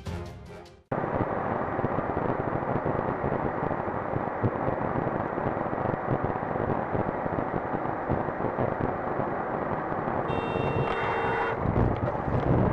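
Dashcam recording of a car driving, with steady road and engine noise heard from inside the cabin. About ten seconds in, a car horn sounds for just over a second.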